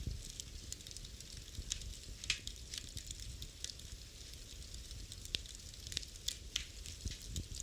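Wood fire burning in a fireplace: a steady low rumble and hiss with irregular sharp crackles and pops, one louder pop about two seconds in.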